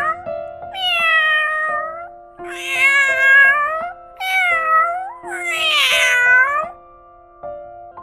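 Domestic cat meowing four times, each meow about a second long and bending in pitch, over background music with held keyboard notes.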